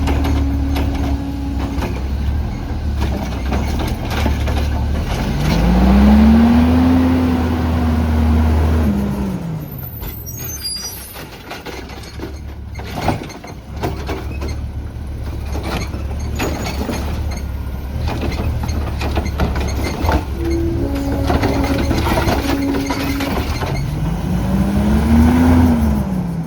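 Garbage truck's CNG engine running, its revs rising and falling twice, with a hiss of air brakes around the middle.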